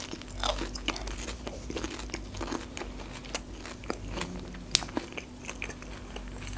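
A person chewing food with the mouth closed: a steady string of wet mouth clicks and smacks, with a few sharper clicks in the second half.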